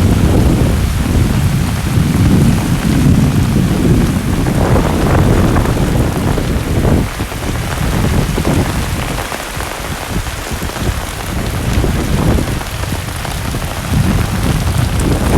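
Heavy rain pouring down, with a deep rumble underneath that eases in the middle and builds again near the end.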